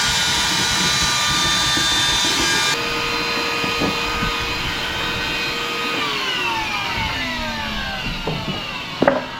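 An electric power tool's motor running steadily at full speed, then switched off about six seconds in, its whine falling in pitch as it spins down over about two seconds. A few sharp knocks near the end.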